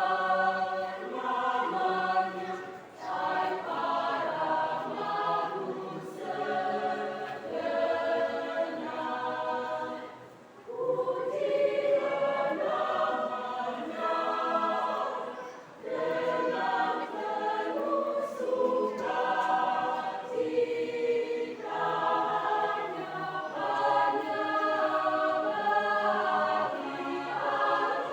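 Church choir singing in several parts, sustained phrases with brief breaks between them.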